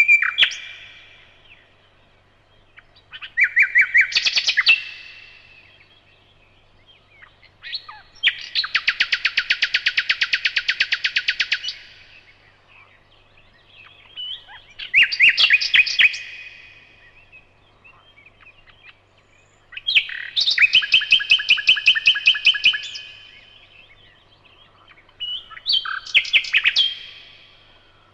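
Nightingale singing: five separate phrases with pauses between them, each a run of rapidly repeated notes and trills, the longest an even rattle of about four seconds.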